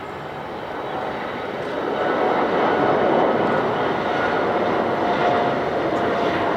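Boeing 787-8 Dreamliner departing under takeoff power: a dense jet-engine roar with a faint steady whine in it, growing louder over the first two seconds and then holding loud.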